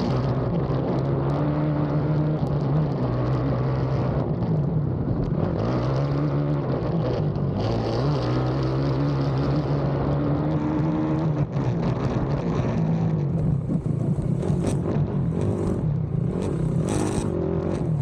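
Racing ATV engine at race pace, its pitch climbing and dropping again and again as the throttle and gears change. Over the last few seconds a string of sharp knocks and clatter sounds over the engine.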